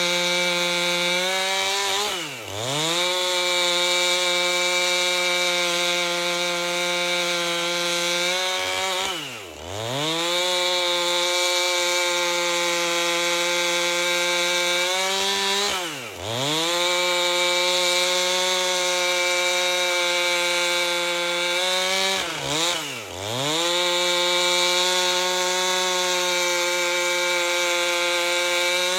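Two-stroke chainsaw with a 30-inch bar running at high revs, ripping lengthwise through an albasia log. The engine note holds steady but drops sharply and climbs back four times, the last two dips in quick succession.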